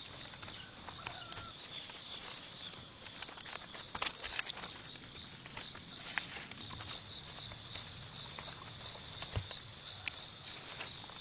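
Field ambience with a steady, high-pitched chorus of insects, over scattered short clicks, rustles and footsteps. A few sharper knocks come about four seconds in and again near the end.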